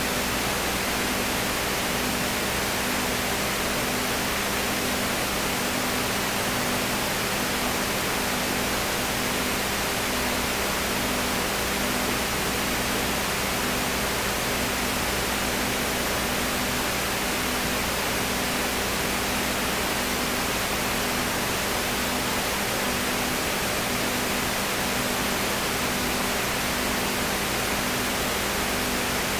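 Steady hiss, with a faint low hum underneath that pulses slightly.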